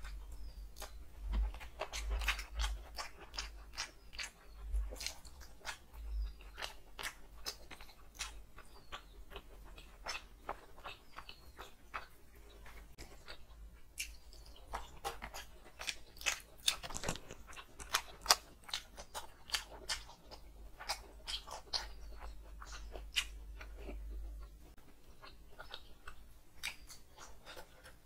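Close-miked chewing of a mouthful of rice pulao and curry, with wet smacking and many sharp irregular mouth clicks.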